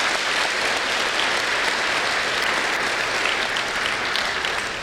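Audience applauding steadily in a school gym or auditorium, a dense patter of many hands clapping that begins to thin out near the end.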